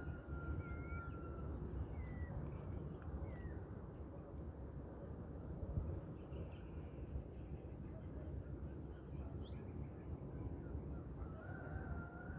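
Several birds calling at dawn: a rapid series of short, high, falling notes, long level whistles, and one quick rising call, over a steady low rumble of background noise.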